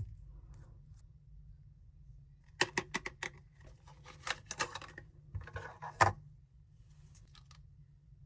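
Packaging being handled during an unboxing: a run of sharp clicks and taps with a stretch of rustling in the middle, and the two loudest clicks about six seconds in.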